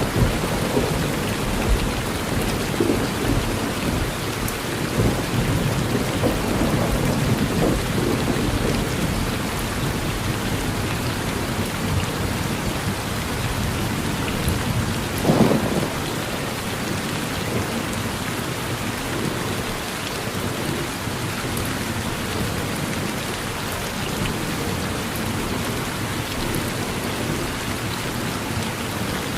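Steady rain falling on a porch, with thunder rumbling low through the first several seconds and one short, louder burst about halfway through.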